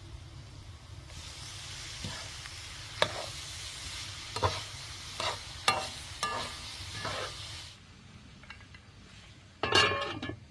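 Food sizzling in a hot pan while a utensil stirs and scrapes it in several separate strokes. The sizzle stops about three-quarters of the way in, and a louder metallic clatter with a brief ring follows near the end.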